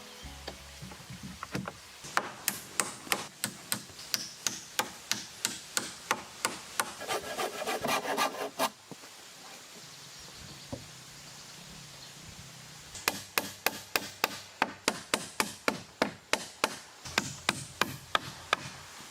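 Hand tool working timber in rhythmic strokes, about three a second, in two runs separated by a pause of a few seconds.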